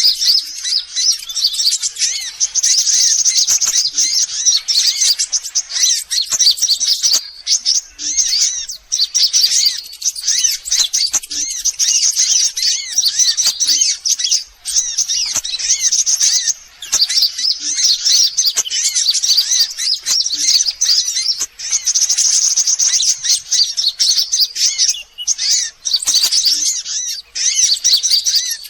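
Sunbird lure calls: dense, rapid, high-pitched chirping and twittering, nearly continuous with a few short breaks.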